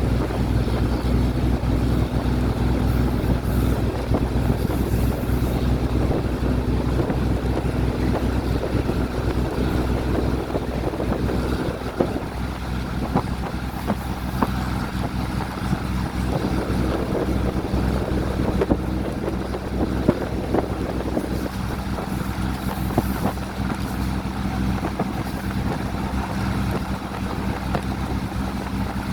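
Diesel train running: a steady low rumble with a constant engine hum and scattered sharp clicks and knocks.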